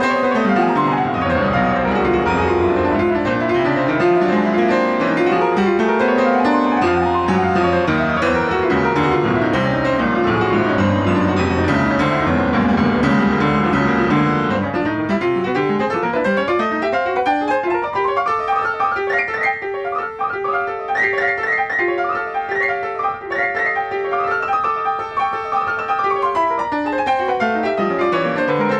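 Solo piano playing. Dense passages fill the low and middle registers at first; about halfway the bass drops away and fast runs sweep up and down over repeated figures higher up, ending with a long descending run.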